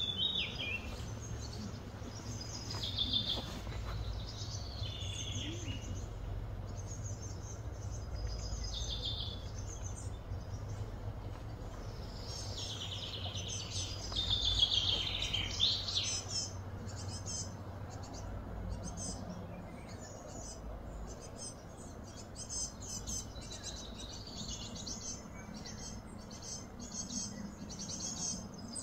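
Birds chirping and calling repeatedly in short phrases, over a steady low hum.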